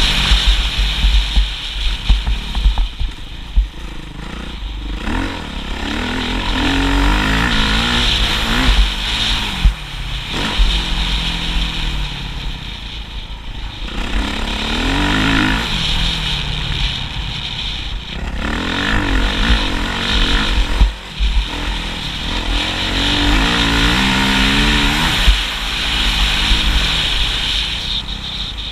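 Motocross motorcycle engine accelerating hard and backing off every few seconds, its pitch climbing and then dropping repeatedly, with a steady low rumble underneath.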